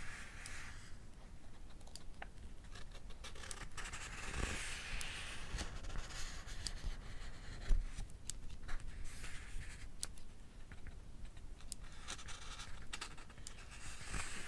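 Pages of a paperback book being turned, in several soft papery rustles a few seconds apart, mixed with scattered sharp clicks of a mechanical pencil's lead being pushed out.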